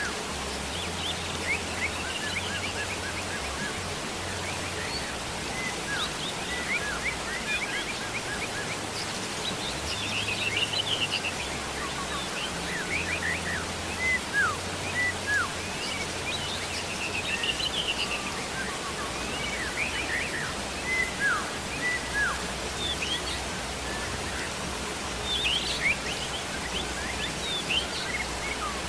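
Steady rain hiss with birds chirping and twittering throughout, short calls and trills repeating every second or so. A low droning tone underneath steps between pitches.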